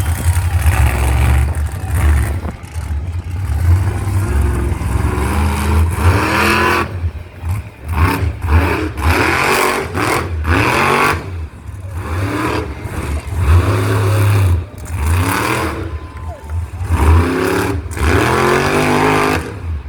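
Monster truck engine revving hard over and over, each burst climbing in pitch and dropping back, with a heavy low rumble underneath.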